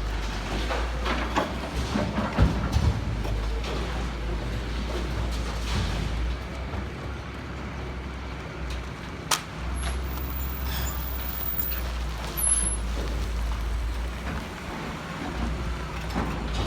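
A heavy vehicle's engine running with a steady low rumble. A few knocks and clanks come about two seconds in, and there is a single sharp click near the middle.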